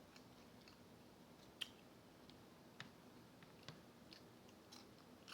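Quiet chewing of fried chicken close to the microphone: a handful of soft, sharp crunches and mouth clicks, the loudest about a second and a half in, over a faint steady fan hum.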